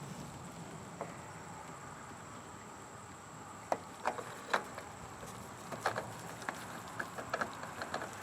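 Irregular sharp clicks and knocks of hand work on a riding mower, mostly from a little before halfway on, over a faint steady hiss.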